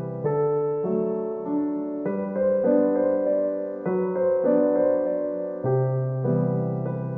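Background music: a gentle solo piano piece, chords and melody notes struck and left to ring, a new note or chord every half second or so.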